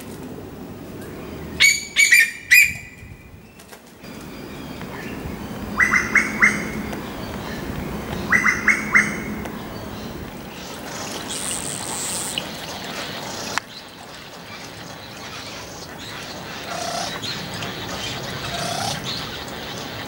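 A bird calling: three bursts in the first half, each a quick run of three sharp, high notes, followed by fainter calls over outdoor background.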